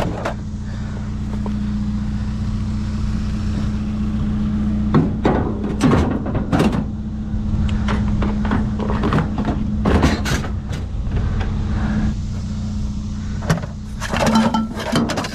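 Engine idling steadily with a constant low hum. Over it, intermittent knocks and clatter as objects are shifted around in the trash, the loudest a few seconds in, around the middle and near the end.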